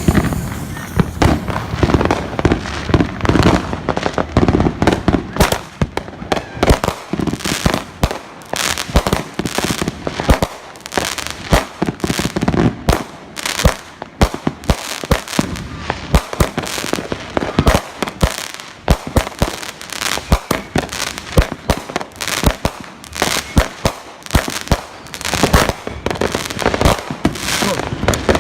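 Consumer fireworks going off: a long, dense run of sharp bangs and crackling pops in quick, irregular succession.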